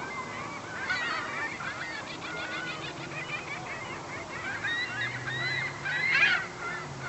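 A large flock of herring gulls calling, many short overlapping cries at once, with the loudest burst of calls about six seconds in.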